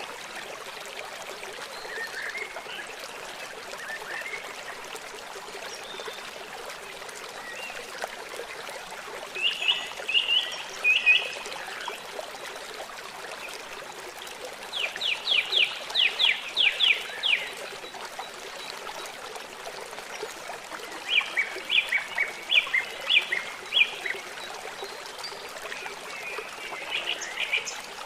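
Running river water, a steady rushing, with a songbird singing over it: faint chirps at first, then four bursts of quick repeated notes, the longest a fast trill of about nine notes in the middle.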